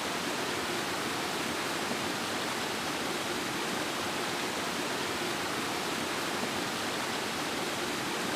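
Steady rushing water ambience, an even hiss that neither rises nor falls.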